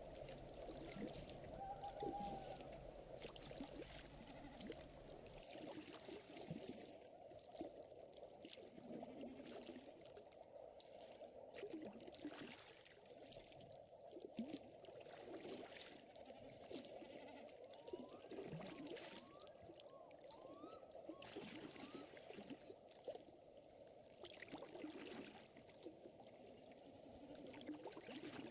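Faint ambience of gently lapping, trickling lake water, crossed by small sharp crackles from a wood fire.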